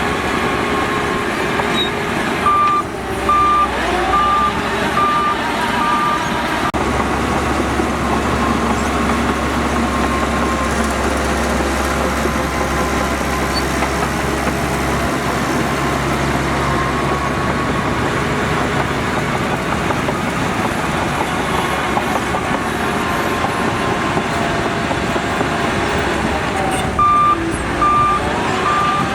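Heavy diesel earthmoving machinery running steadily under load. A reversing alarm beeps about five times, a little over one beep a second, a few seconds in, and starts beeping again near the end.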